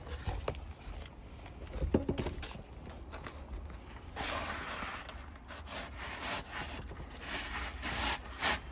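A replacement 3-tab asphalt shingle being worked into place on the roof: rubbing and scraping against the shingles around it, with a few sharp knocks, the loudest about two seconds in.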